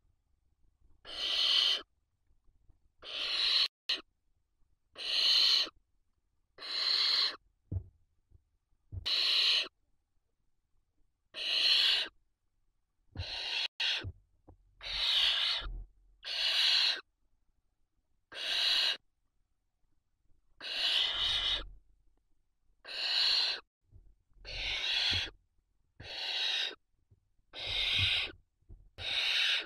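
Barn owl chicks giving their begging calls: a long run of harsh, hissing snores, each under a second long, coming about every one and a half to two seconds.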